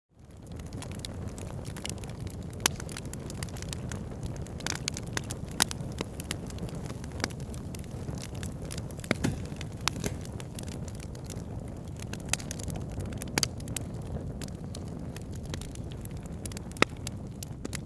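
Wood fire burning in a fireplace: a steady low rush of flames with scattered sharp crackles and pops. It fades up from silence right at the start.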